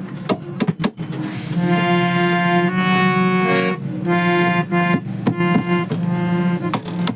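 Harmonium reeds sounding held chords in two stretches with a brief break between them, over sharp clicks and taps throughout.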